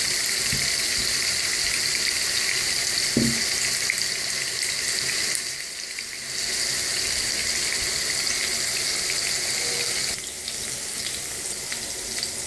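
Cubed eggplant frying in hot vegetable oil in a nonstick pan: a steady sizzling hiss that dips briefly about six seconds in and softens a little about ten seconds in.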